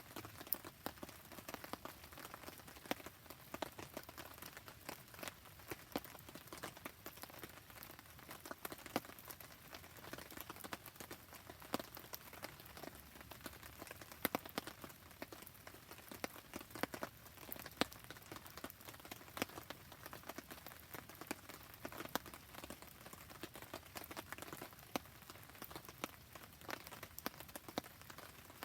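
Steady rain pattering, thick with irregular sharp little ticks and pops, mixed with the crackle of a wood campfire.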